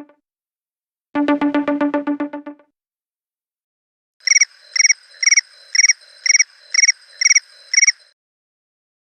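iPhone ringtone and alert tones played in turn. A rapidly pulsing buzzy tone plays once for about a second and a half. After a pause, a tone of nine short, high chirps follows at about two a second.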